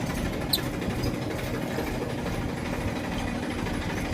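An engine idling steadily, with a single sharp click about half a second in.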